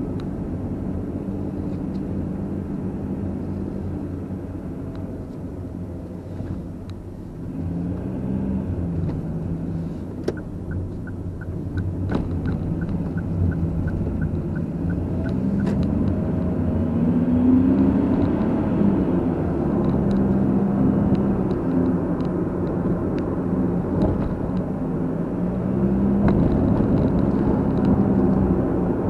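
Car being driven, its engine pitch rising and falling with speed and gear changes over steady road rumble. A regular ticking, about two a second, runs for about five seconds midway.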